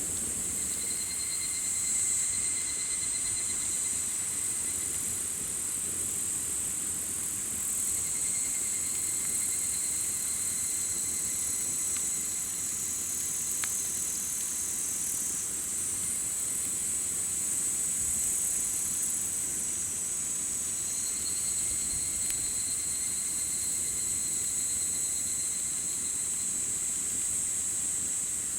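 Steady high-pitched chorus of summer insects, with a second insect's pulsing trill coming in and fading out three times. Under it is the low crackle of a campfire, with one sharp pop about halfway through.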